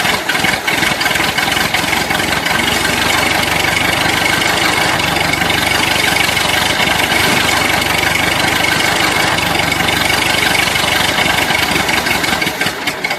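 Small motor of a miniature tractor running steadily, with a dense, rapid rattle.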